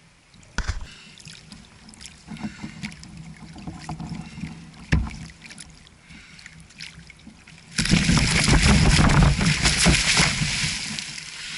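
Knocks and clunks on a fishing kayak, then a loud rushing noise that starts abruptly about eight seconds in and lasts some three seconds.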